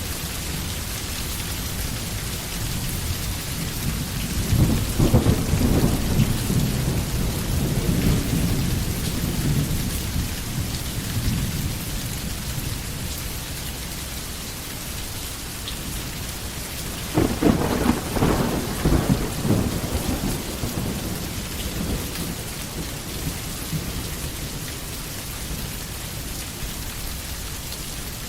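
Steady rain falling, with two rolls of thunder: a rumble building about five seconds in and fading over several seconds, and a second, sharper crackling rumble a little past the halfway point.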